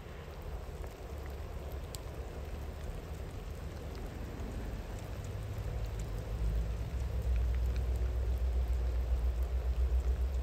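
Steady rain falling, with a few scattered drop ticks, under the low rumble of a distant train that grows louder in the second half.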